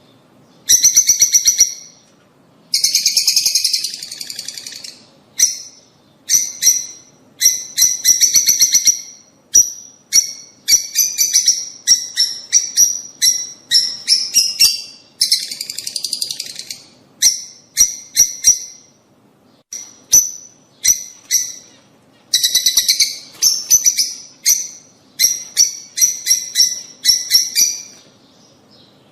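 Lovebirds chattering: runs of rapid, shrill, high-pitched chirps, each run lasting about a second with short gaps between, going quiet briefly near the end.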